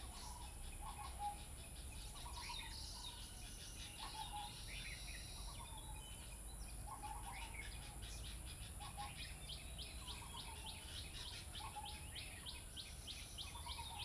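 Birds chirping and calling, with many short high chirps, a repeated lower note, and a fast run of chirps in the second half, all over a steady low hum.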